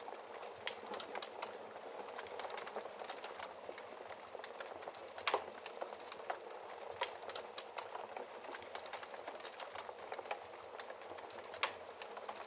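Wood fire in a fireplace crackling: a steady hiss of burning with frequent small pops and snaps, and one louder pop about five seconds in.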